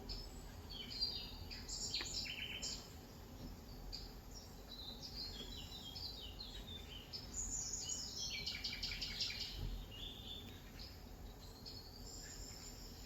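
Wild birds chirping and singing outside, many short high calls overlapping, with a fast trill about eight seconds in.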